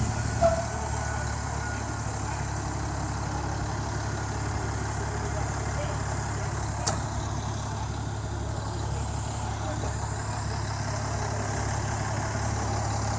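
Heavy truck engine idling steadily, with a small click about half a second in and another about seven seconds in.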